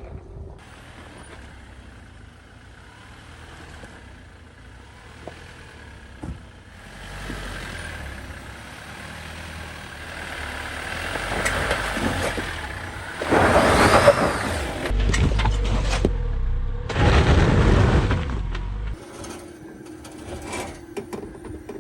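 Off-road 4x4 engine pulling on a trail, building up with two loud surges of revving and churning, one just past halfway and one near the end, before settling back.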